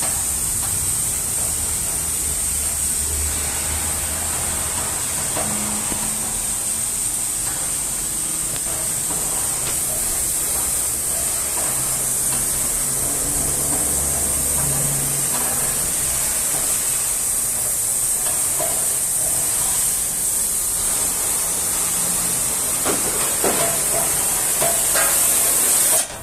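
Electric welding arc sizzling and hissing steadily, cutting off suddenly at the end.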